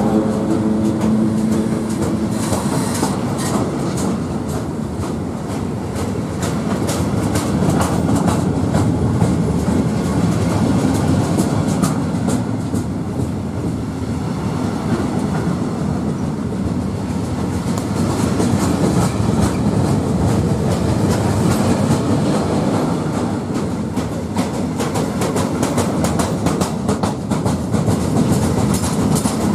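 Freight train of covered sliding-wall wagons rolling past close by, its wheels clicking steadily over the rail joints under a continuous rumble. A hum fades out in the first couple of seconds.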